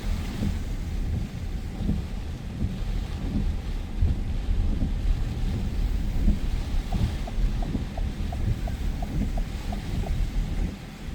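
Storm wind buffeting the microphone, a heavy low rumble that swells and dips with the gusts, over a faint hiss of rain. About seven seconds in, a run of faint, quick high beeps comes at about four a second for some three seconds.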